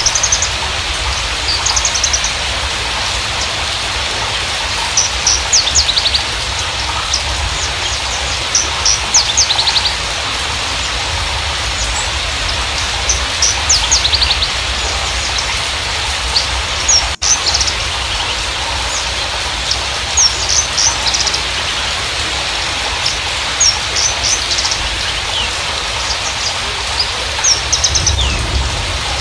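Javan bushlark (Mirafra javanica parva) singing in scattered bouts of short, sharp high chirps and quick trills over steady background noise.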